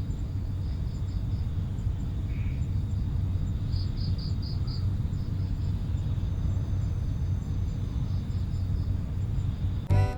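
Outdoor field ambience: insects, crickets or similar, chirping in short repeated trills over a steady low rumble. Music with organ-like chords cuts in at the very end.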